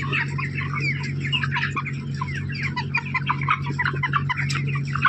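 A flock of chickens calling continuously, many short downward-sliding calls overlapping, over a steady low hum.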